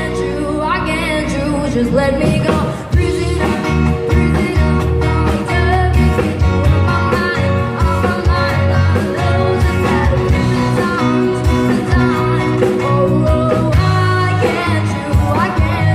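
Live band playing loud music with a singer, over a steady bass line and drum beat.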